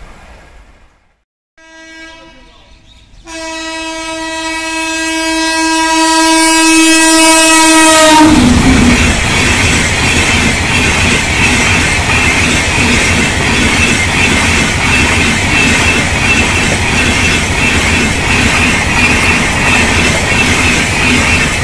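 WAP-7 electric locomotive's horn: a short toot, then a long blast that drops in pitch as the locomotive passes at speed. It is followed by the loud, steady rush and clatter of passenger coaches running past.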